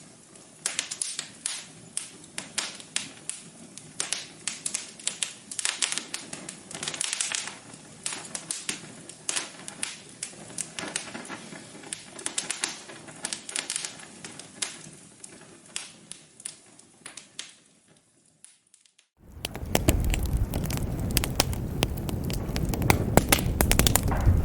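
Wood fire crackling in a fireplace, with frequent sharp pops and snaps over a soft hiss. About 19 seconds in it fades almost to nothing, then comes back suddenly louder, with a deep rumble under the crackles.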